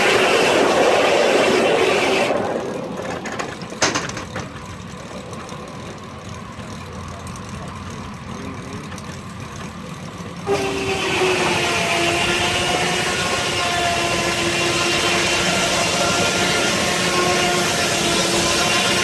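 Steam-powered sawmill blade cutting a log. It runs more quietly between cuts with a single sharp click, then about ten seconds in bites into the wood again with a sudden loud, steady whine that sags slightly in pitch under the load.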